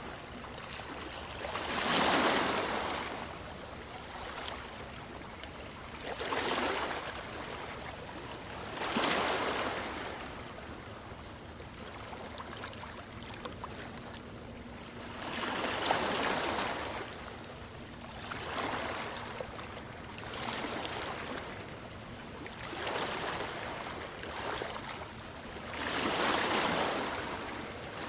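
Ocean surf on a beach: a wave breaks and washes up every few seconds, about eight swells in all, over a steady hiss of water.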